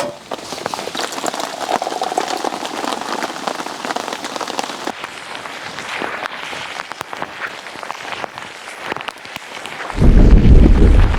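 Steady rain with many separate drops pattering. About ten seconds in a loud low rumble starts suddenly and becomes the loudest sound.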